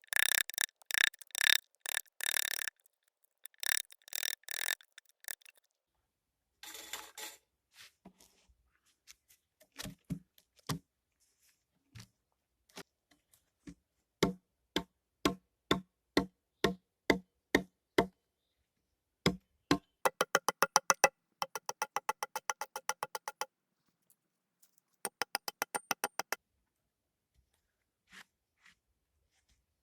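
A series of sharp knocks and taps: a quick cluster at first, then single knocks, then a steady run of about two a second. Near the middle comes a fast rattle of about ten taps a second lasting three seconds, followed by a shorter one.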